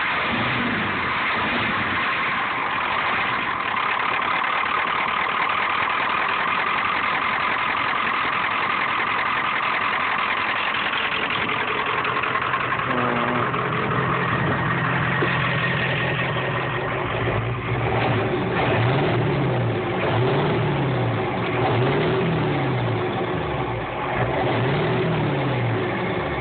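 1994 Ford F250 pickup engine idling steadily, then revved up and down about five times in a row over the last third.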